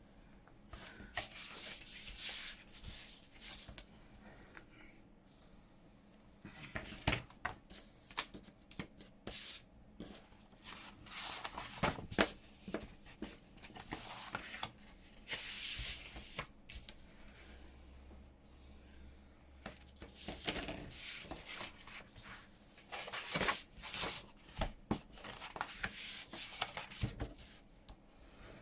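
Paper journal pages being burnished: repeated rubbing and scraping strokes of a burnishing tool over folded paper, coming in irregular clusters with short pauses between.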